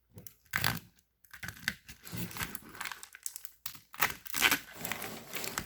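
Old plastic split loom and tape being pulled and torn off a car's engine wiring harness, giving irregular crinkling, crackling and tearing noises in short bursts. The loom is dry-rotted and brittle.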